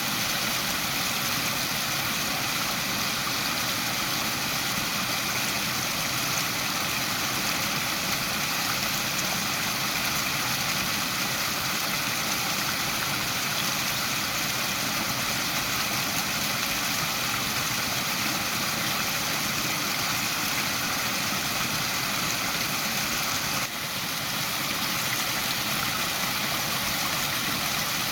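Waterfall: a steady, even rush of falling water, with a brief drop in level about 24 seconds in.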